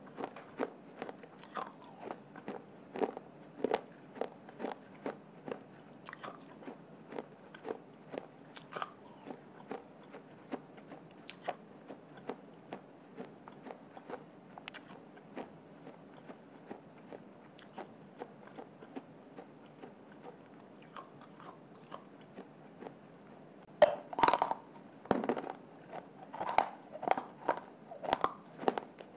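Someone biting and chewing hard baked clay, a steady run of crisp crunches about one or two a second. A louder cluster of bites comes a few seconds before the end.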